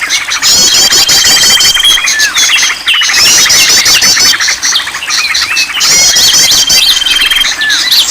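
A dense chorus of many songbirds calling at once, with chirps, whistles and rapid trills overlapping and a steady high trill recurring every few seconds. It is a mixed bird-lure recording (suara pikat) meant to set caged birds singing.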